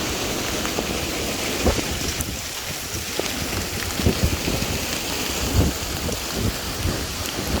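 Heavy rain pouring steadily, with irregular low thumps mixed in.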